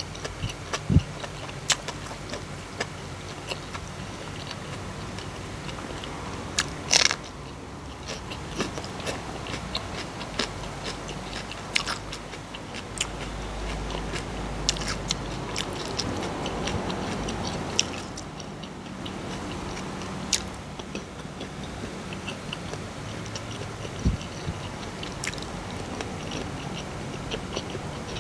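Close-up chewing and biting of food, with wet mouth clicks and crisp crunches scattered throughout. A loud crunch comes about seven seconds in, and a low rumble swells and fades in the middle.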